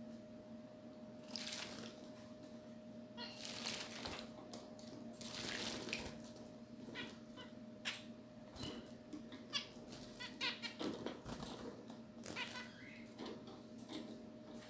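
Small pet birds calling with many short, high chirps while splashing about in bathing water, over a steady low hum.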